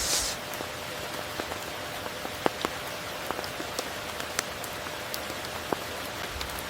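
Steady tropical rain, with single heavy drops ticking sharply now and then and a brief hissing swell right at the start.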